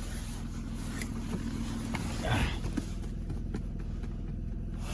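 A car engine idling steadily, warming up after a cold start in freezing weather, with a brief, short noise about two seconds in.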